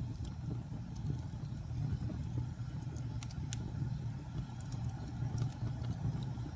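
Wood fire burning in a fireplace: a steady low rumble of flames with occasional sharp crackles and pops.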